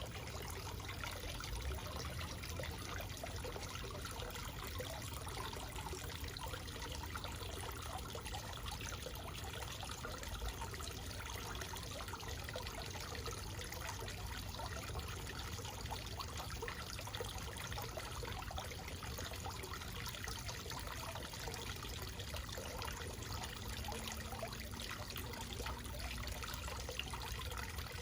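Backyard waterfall running, water falling and trickling steadily without a break.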